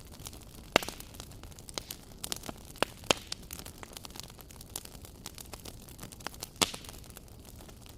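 Wood fire crackling: scattered sharp pops and snaps over a steady low hiss, with two louder pops about a second in and near the end.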